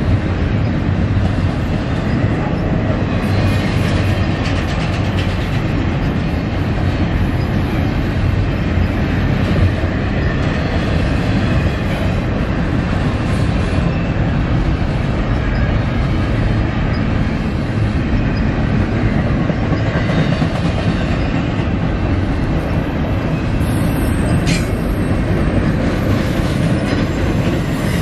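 Freight train rolling past: a loud, steady rumble of railcar wheels on the rails.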